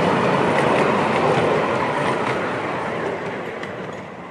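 Miniature railway coaches rolling past on the track, wheels clicking lightly over the rail joints. The sound fades as the train moves away, about three seconds in.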